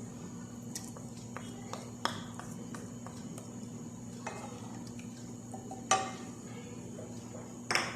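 Spoon clinking and scraping against a cooking pot as ginger-garlic paste is added to hot oil: several separate knocks, the loudest about six seconds in, over a steady low hum.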